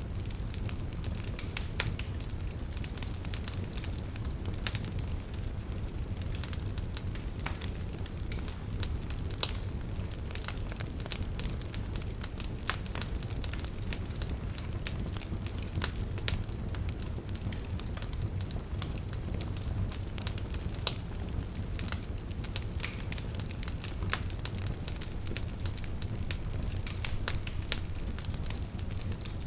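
Wood fire burning in a fireplace: a steady low rumble of flames with frequent sharp crackles and pops, two of them louder, about a third and two-thirds of the way through.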